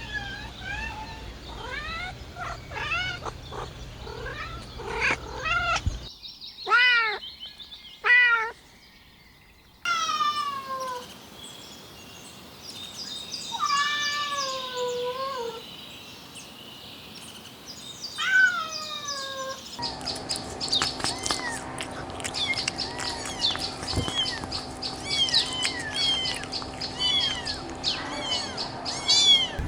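Kittens mewing: many short, high-pitched mews in quick succession, across several spliced recordings that change abruptly about six, ten and twenty seconds in. In the last part the mews come thick and overlapping, as from several kittens at once.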